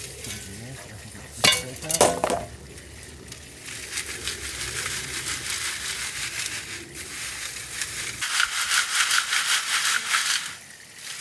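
Crackling, crunchy rustle of soil and compost being dug through and picked over for sticks, with two sharp louder sounds about one and a half and two seconds in, and the rustle getting busier in the second half before stopping shortly before the end.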